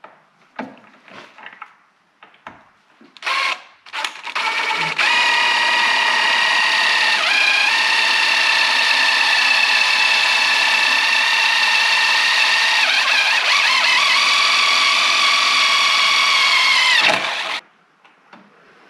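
Power drill boring a pilot hole: two short blips of the motor, then a steady high whine for about thirteen seconds that dips in pitch a couple of times as the bit bites, then stops.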